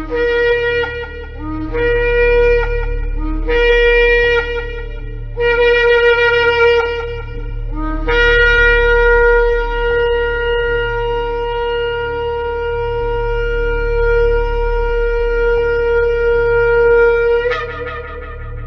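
Shofar blown in four short blasts, each stepping up from a lower note to a higher held note, then one long held blast of about nine seconds that breaks upward just before it ends.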